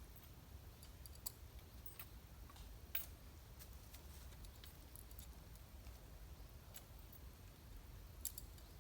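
Faint, scattered sharp clicks and ticks, a few seconds apart, over a low steady background rumble.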